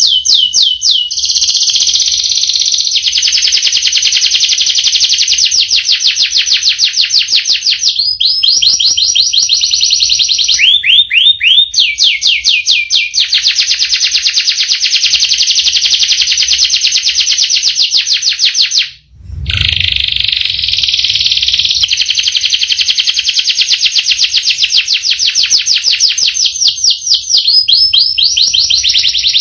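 Domestic canary singing long rolling trills of rapid, high repeated notes, the speed of the notes changing from phrase to phrase. The song breaks off briefly about two-thirds through, with a low thud as it resumes.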